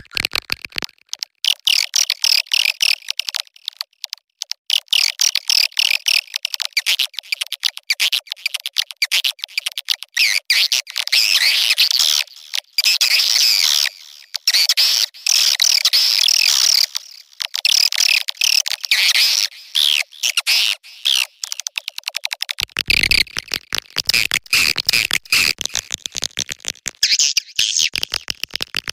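Edible-nest swiftlet mating calls: a dense, high-pitched chatter of rapid clicking twitters in bouts with short gaps.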